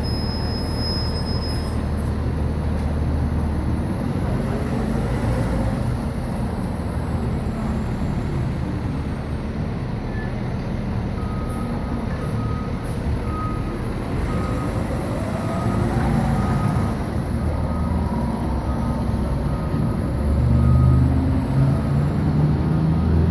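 Fire engine's diesel engine running steadily while it parks, with its reversing alarm beeping repeatedly from about halfway in and stopping near the end. The engine grows louder in the last few seconds.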